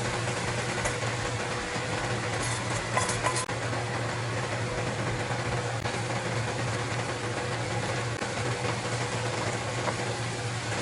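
A steady mechanical hum with an even background rush and a few light clicks.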